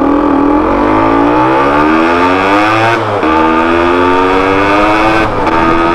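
Motorcycle engine being ridden and accelerating, its pitch climbing steadily. It drops at an upshift about three seconds in, climbs again, and shifts once more near the end.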